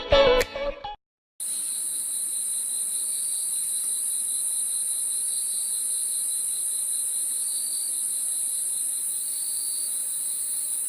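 Music stops about a second in; after a brief gap, a steady, high-pitched chorus of insects.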